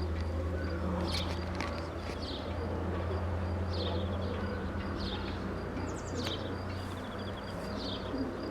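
Small birds chirping: short high chirps repeating about once a second, over a steady low hum.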